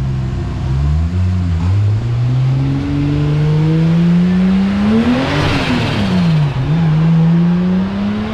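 Toyota Supra's rebuilt 2JZ-GTE turbocharged straight-six at full throttle on a chassis dyno. Its revs climb steadily to a peak about five and a half seconds in, then fall and climb again.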